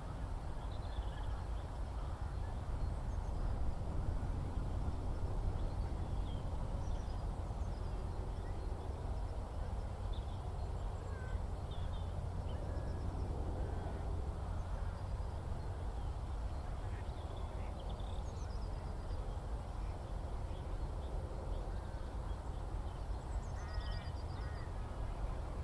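Open-countryside ambience: a steady low rumble under scattered, distant bird calls, short chirps and a few quick trills near the end.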